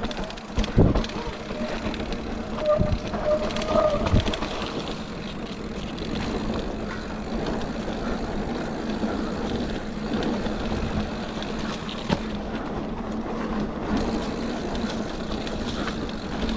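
Mountain bike descending a dirt trail: a steady rush of wind on the microphone and tyres rolling over the ground, with the bike rattling over bumps and a few sharp knocks.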